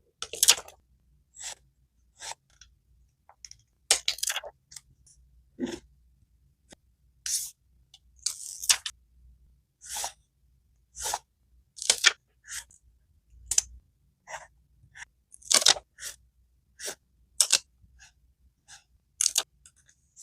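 Paper scrapbook pages rustling and crinkling as they are handled and turned, in a long run of short, irregular, crisp crackles.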